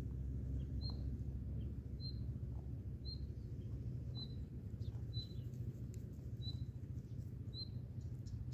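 A small bird repeating a single short, high chirp about once a second, seven or eight times, over a steady low rumbling noise.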